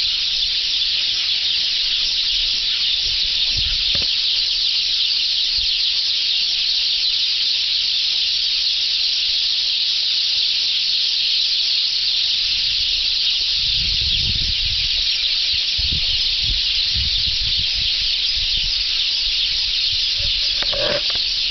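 Dense, steady chorus of many small birds chirping together in trees, with low rumbles of wind or microphone handling around two-thirds of the way through.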